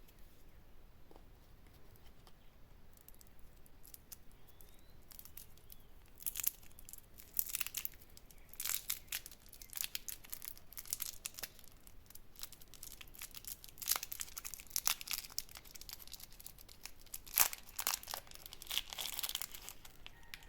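Candy wrapper being torn open and crinkled in a run of sharp, crackly rustles, sparse at first and then thick and continuous from about six seconds in.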